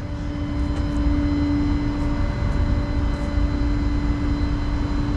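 Flatbed tow truck's engine idling: a steady low rumble with a constant hum.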